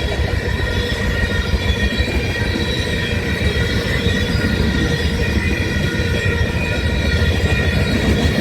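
Freight train rolling past close by: a loud, steady rumble of railcars on the rails, with a steady high-pitched whine from the wheels over it. It is a garbage train carrying trash.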